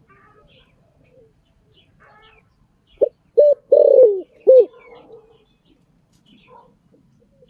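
Spotted dove cooing: one phrase of four coos starting about three seconds in, two short notes then two longer ones, the last falling away in pitch. Faint chirps of other small birds are heard around it.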